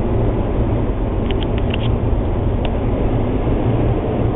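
Automatic car wash machinery running, heard from inside the car: a steady low rumble with a few faint light clicks about one and a half to two and a half seconds in.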